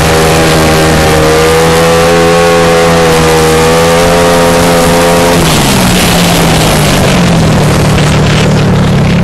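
Single-cylinder speedway motorcycle engine running hard at high, steady revs, heard from on board over heavy wind noise. About five seconds in the revs fall and the engine settles at a lower pitch.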